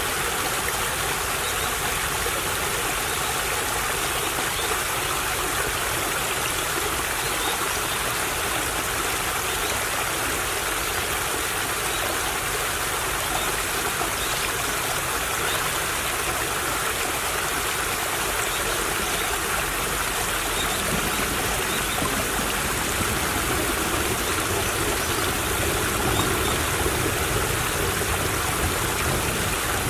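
Small stream trickling steadily, a continuous rushing water sound, with a low rumble building underneath in the last ten seconds.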